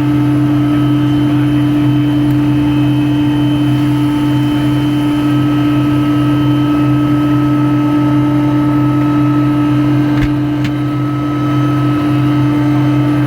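Helicopter running steadily, a loud constant drone with a strong unchanging hum.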